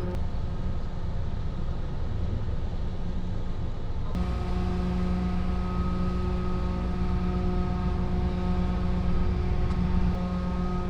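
Large diesel engine idling with a steady low hum; the sound changes abruptly about four seconds in.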